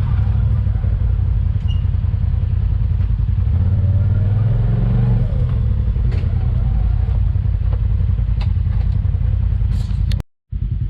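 Side-by-side UTV engine running steadily with a fast low pulsing note and a few light clicks and knocks over it. The sound cuts out for a moment near the end.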